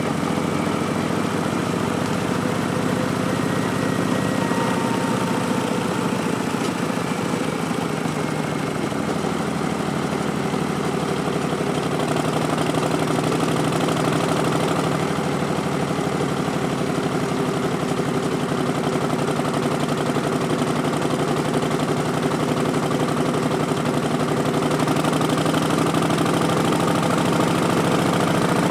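2019 Harley-Davidson Street Bob's Milwaukee-Eight 107 V-twin running through Vance & Hines Twin Slash slip-on mufflers. Its note shifts in pitch a few times and gets a little louder about twelve seconds in and again near the end.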